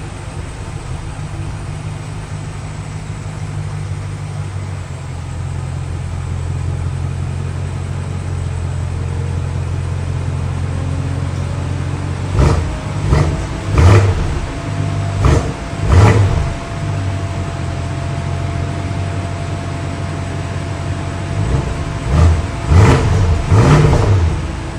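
BMW M850i Gran Coupe's twin-turbo V8 idling through its exhaust. It is blipped in two sets of quick revs, about five around the middle and about four near the end, dropping back to idle between them.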